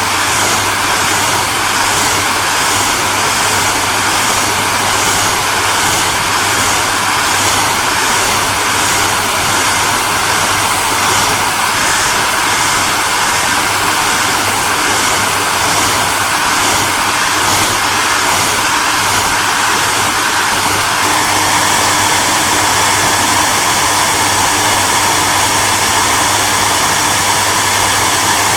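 Hair dryer running steadily: a continuous blowing hiss over a low motor hum. A faint rapid pulsing in the upper hiss fades about three-quarters of the way through, leaving a smoother, brighter hiss.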